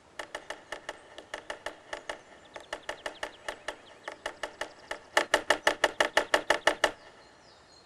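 Woodpecker pecking on a tree trunk, a knocking like someone at a door. It starts as a string of scattered, lighter knocks, then about five seconds in breaks into a faster, louder even run that stops suddenly.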